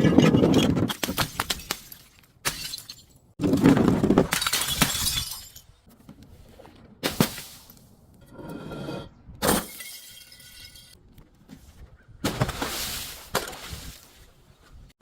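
Glass bottles breaking and shattering, in several loud bursts of crunching and crackling shards, with a few single sharp cracks in between and faint ringing of glass about eight to ten seconds in.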